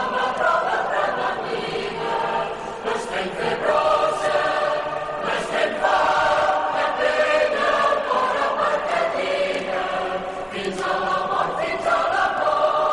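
Many voices singing together in chorus, holding long notes that move from one pitch to the next.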